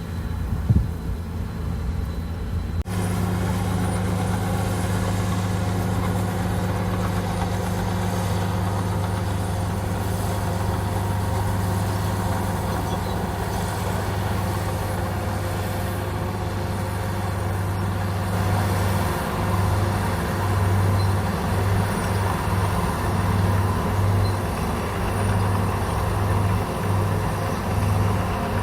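Komatsu bulldozer's diesel engine running with a steady low drone, after a single sharp knock near the start. In the last third the drone pulses unevenly, rising and falling as the engine works under changing load.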